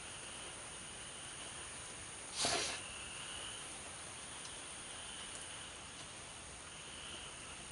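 Steady night-time hiss of light rain with insects trilling on and off, and a single short breathy hiss about two and a half seconds in.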